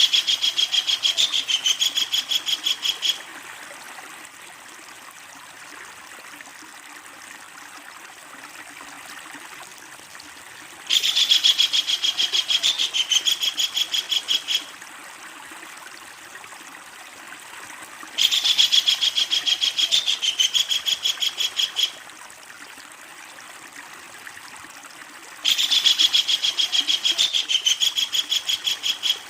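Kingfisher giving long, loud rattling calls: fast strings of repeated high notes, four bouts of about three to four seconds each, roughly seven seconds apart. A steady hiss like running water continues between bouts.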